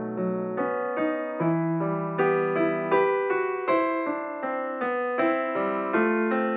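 Background piano music: a gentle melody of single notes over held bass notes at an even pace.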